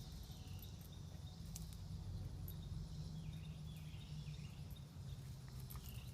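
Outdoor summer ambience: a steady chorus of crickets and other insects, over a low steady rumble, with scattered light clicks and rustles like footsteps in brush.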